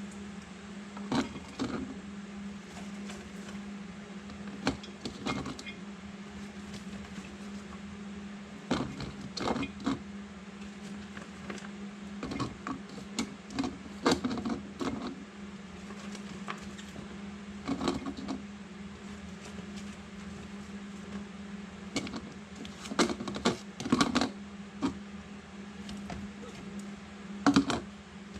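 Sliced cucumbers and onions being packed by hand into glass jars: irregular clinks, taps and knocks, some in quick clusters, over a steady low hum.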